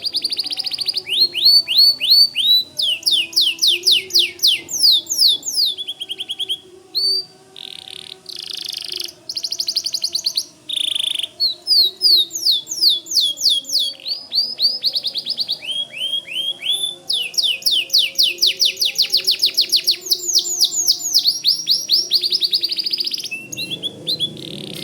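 White canary singing vigorously: long, fast trills of repeated downward-slurred notes, changing from one phrase type to the next, with brief pauses between runs.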